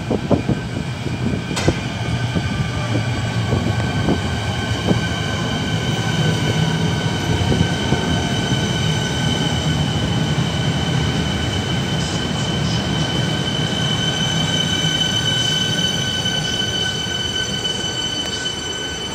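Electric suburban train pulling into an underground station platform and slowing: a steady rumble with a sustained high-pitched squeal, and a whine that falls slowly in pitch as it slows, ringing off the station walls. There is one sharp click about a second and a half in.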